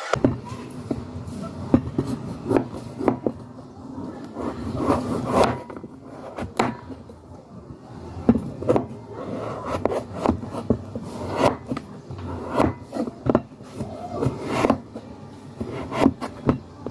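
Kitchen preparation sounds: irregular knocks and short rubbing scrapes on a wooden surface, about one or two a second, over a steady low hum.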